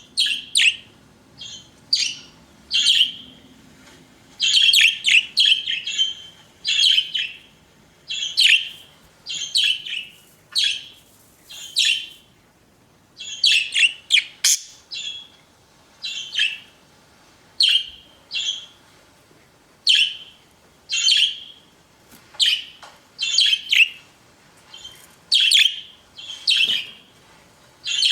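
Pet budgerigars chirping: short, sharp, high calls in quick succession, about one or two a second, some in tight clusters.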